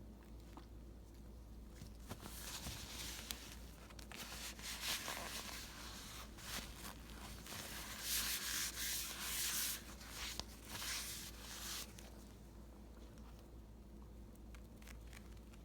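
Irregular dry rubbing and scraping noises in uneven bursts, with scattered small clicks, strongest from about two seconds in until about twelve seconds in.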